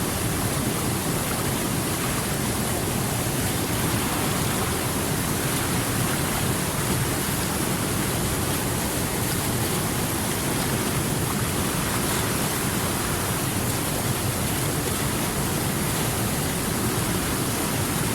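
River water rushing, a steady even hiss without breaks or changes.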